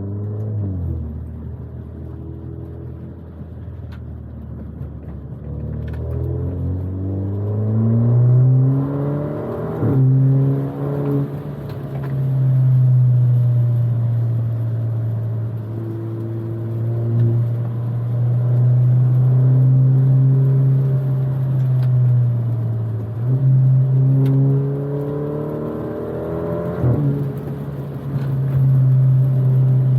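Alfa Romeo Giulia engine pulling through the gears. The revs climb and then drop sharply at gear changes, about ten seconds in and again near the end, with a long stretch of steady cruising between them.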